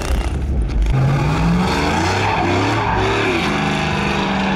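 Truck engine revving hard: its pitch climbs from about a second in, rises and falls a couple of times, then holds high and steady.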